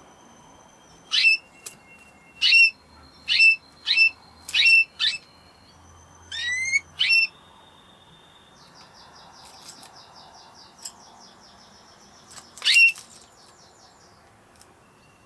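Spanish Timbrado canary singing: a string of sharp, separate chirps in the first half, a quick run of rising notes, then a quieter rapid trill and one more sharp chirp near the end.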